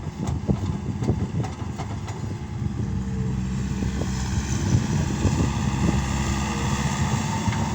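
Case SR200 skid steer's diesel engine running steadily, with a few short knocks in the first two seconds.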